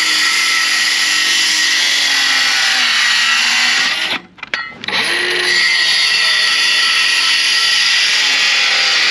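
Milwaukee M12 cordless circular saw with a Diablo demolition blade cutting deck board, its motor whine sagging a little under load. The blade is one the owner believes is dull. The saw stops about four seconds in, then starts again and keeps cutting steadily.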